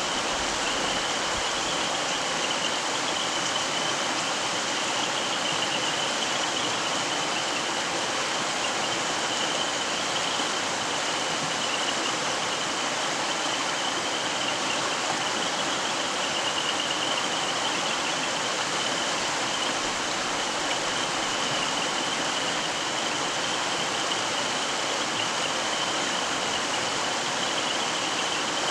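Mountain stream flowing: a steady, even rush of running water, with a thin, steady high-pitched hum running through it.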